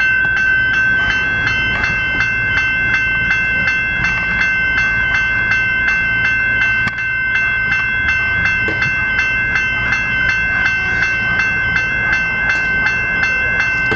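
General Signals electronic level-crossing bells ringing, a bright clanging tone struck in rapid, even strokes, over a low rumble.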